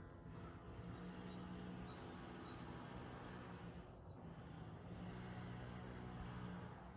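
Wood fire burning in a rusty can: a few faint crackles over a low, steady rumble that swells up twice.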